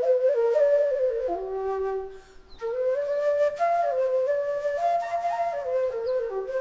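Background music: a solo flute playing a slow, stepwise melody, with a short pause about two seconds in.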